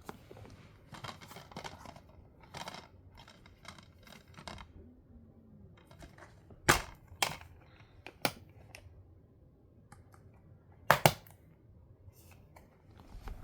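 Rustling and scraping, then a few sharp clicks or knocks, with the loudest pair near the end.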